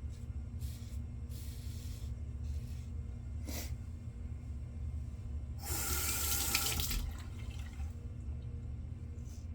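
A few faint razor strokes scraping over lathered stubble and a single click, then a sink tap runs for about a second and a half, over a steady low hum.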